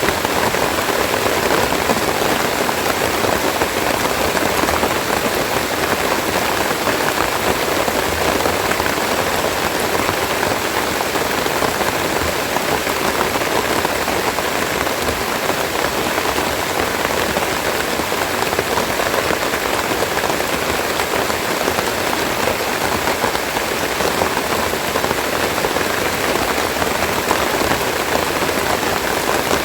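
Steady rain falling and pattering on leaves, a dense even hiss with no letup.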